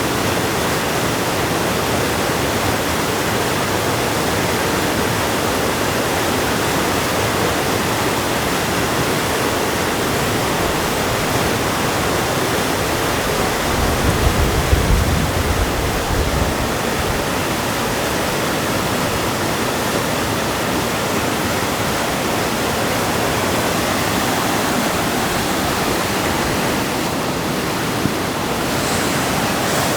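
River water rushing steadily, with a brief low rumble about halfway through.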